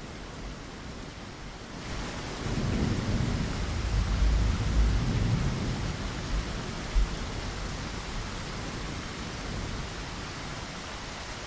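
Steady rain, joined about two seconds in by a deep rolling rumble of thunder that swells and fades over several seconds, with a sharp low thump near the middle before the rain carries on alone.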